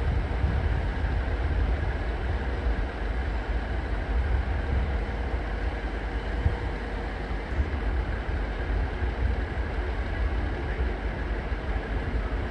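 Steady low rumble of a train, with an even hiss above it.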